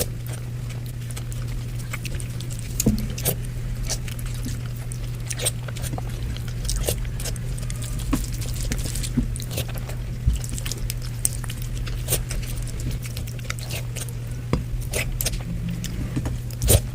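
Close-miked eating sounds: chewing and wet mouth clicks and smacks at irregular intervals, over a steady low hum.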